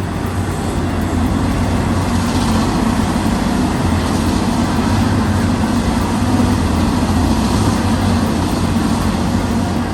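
Heavy diesel vehicle engines running steadily under load, a loud, even low rumble.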